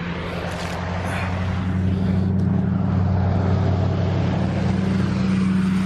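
A motor vehicle's engine running steadily with a low hum, growing a little louder over the first few seconds and easing off near the end.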